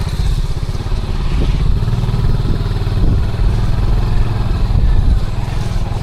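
Small motorcycle engine running steadily while riding along a road.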